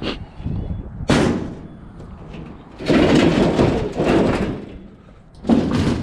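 Scrap and junk being thrown into a truck bed: a sharp bang about a second in, a longer clattering crash from about three to four and a half seconds, and another bang near the end.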